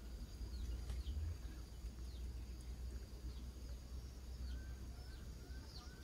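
Faint birds chirping: short high chirps repeating about once a second, joined in the second half by lower short chirps, over a low steady rumble.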